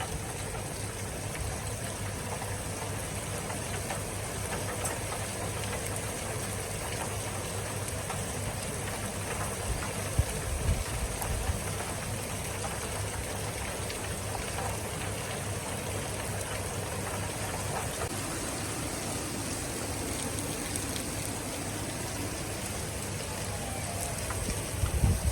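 Steady rain falling, an even hiss, with a couple of brief low bumps about ten seconds in and again near the end.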